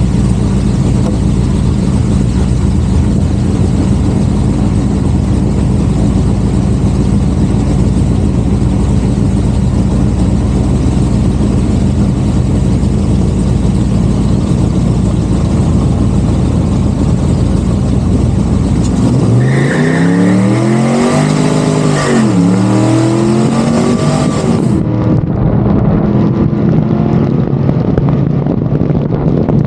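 Car engine running at a steady low idle, then revved so the pitch rises and falls twice about nineteen seconds in; after an abrupt cut near twenty-five seconds a steady engine note carries on.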